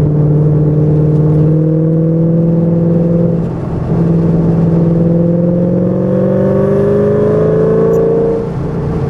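Shelby GT500's V8 engine heard from inside the cabin, pulling hard on a race track. Its pitch climbs steadily, dips briefly about a third of the way in, climbs again, then falls away near the end as the throttle comes off.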